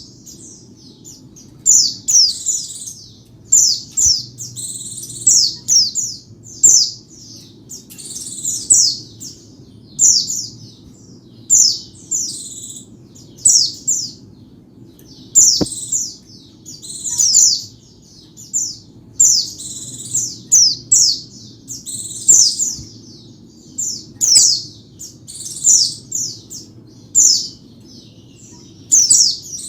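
White-eye (pleci) singing: quick runs of high, thin chirps that fall in pitch, in short phrases about once a second, over a faint steady low hum.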